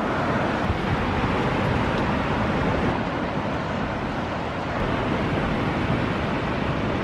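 Atlantic surf washing ashore at the water's edge, a steady rushing wash of breaking waves with wind buffeting the microphone.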